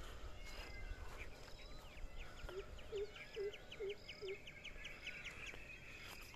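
Several birds calling outdoors: scattered short chirps, a fast trill of high notes about six a second through the middle, and a run of five short low hoots about two and a half seconds in.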